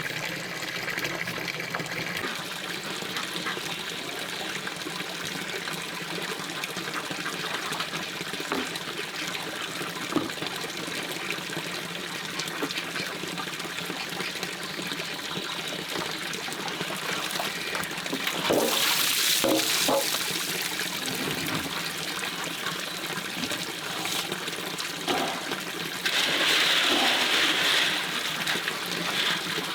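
Stream water running and trickling steadily, with two louder spells of rushing, splashing water: one about two-thirds of the way in, the other near the end.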